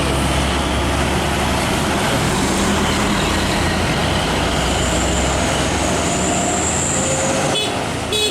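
Heavy diesel truck passing close by on the highway, with a steady low engine note under loud tyre and road noise. A couple of short clicks near the end.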